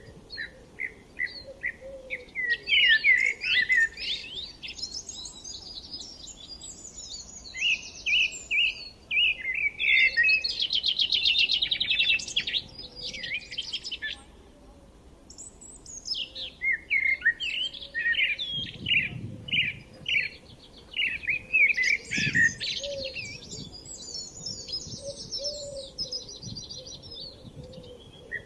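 Songbirds singing and chirping, with several overlapping songs of quick repeated notes and trills. There is a lull about halfway through, then the chorus picks up again.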